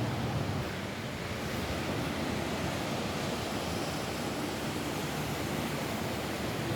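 Steady rain falling on a roof, an even hiss without single drops standing out.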